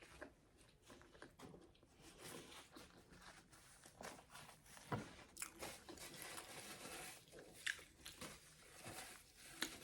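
Faint close-up chewing and crunching of a burger, with small crackling bites scattered throughout.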